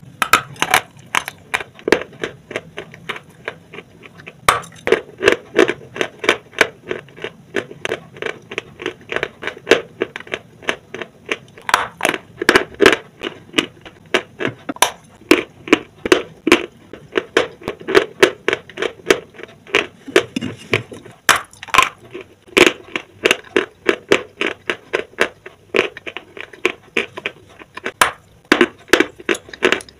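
Close-miked biting and chewing of dry, chalky white lumps: a fast, uneven run of crisp crunches, about three or four a second.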